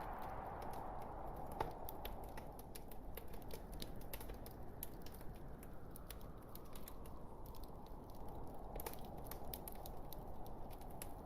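Logs burning in a fireplace, crackling with irregular sharp pops and ticks over a steady rushing hiss of flame, with one louder pop about a second and a half in.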